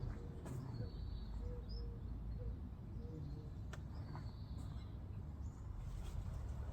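Birds calling outdoors: short notes repeated about twice a second in the first half and a few higher chirps, over a low steady rumble, with a few faint clicks.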